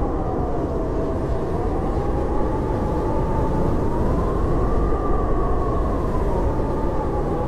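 Blizzard wind howling: a steady, deep rush with a whistling tone that slowly rises and falls in pitch.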